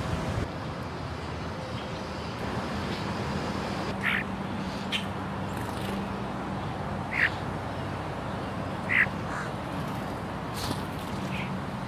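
American crows calling: three short, harsh caws spaced a few seconds apart, with fainter calls near the end, over a steady low background hum.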